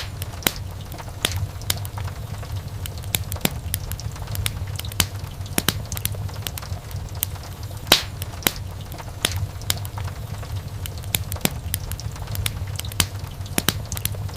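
Wood fire burning in a fireplace: irregular sharp crackles and pops over a steady low rumble of the flames, with a louder pop about eight seconds in.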